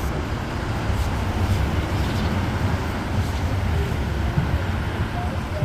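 Street traffic: a steady low rumble of passing road vehicles.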